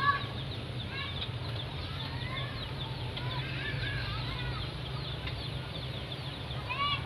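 Birds calling outdoors: many short, arched chirping calls scattered throughout, some overlapping, over a steady low hum.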